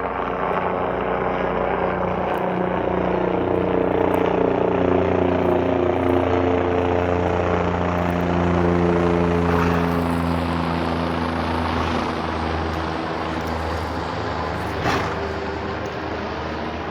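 Helicopter circling overhead: a steady rotor and engine drone whose tones slowly drop in pitch as it passes, loudest in the middle and fading toward the end.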